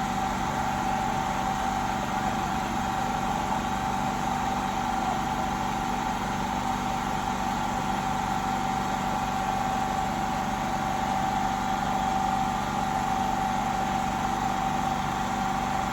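Steady machine hum with a constant mid-pitched tone over an even rushing noise.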